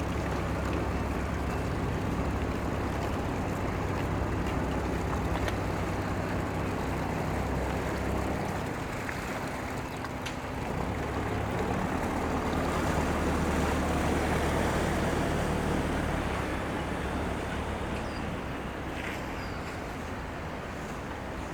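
Low, steady drone of a boat's engine on the harbour, shifting in pitch a couple of times, over a wash of water and wind noise.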